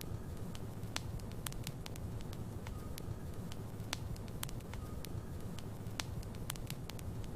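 Wood fire burning in a fireplace: a steady low rumble with frequent sharp, irregular crackles and pops from the burning logs.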